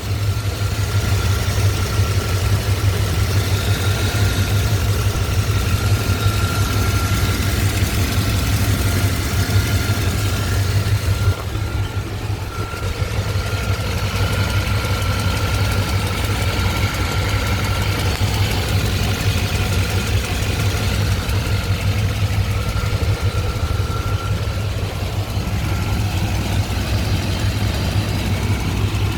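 Chevy 5.7 L TBI 350 small-block V8 idling steadily with a fast, even tick from the valve cover area, which the owner traced to a loose spark plug.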